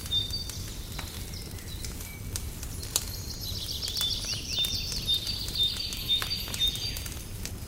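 Wood fire crackling with scattered sharp pops over a low rumble, while small birds chirp with short repeated high notes. About three seconds in, a bird sings a rapid trill lasting around four seconds.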